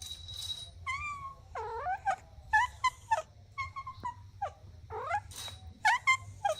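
Kittens mewing over and over: about a dozen short, high-pitched mews in quick succession, some rising and some falling in pitch.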